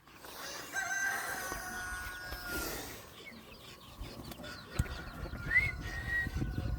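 A rooster crowing: one long, held call starting about a second in and lasting about two seconds, then a short rising call near the end, with scuffing thumps underneath in the second half.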